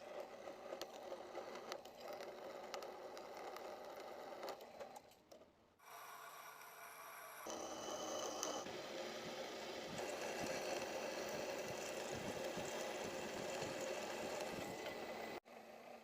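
Metalworking machine running, with a steady whirr and scraping of metal; the sound changes abruptly several times, about six, seven and a half and fifteen seconds in.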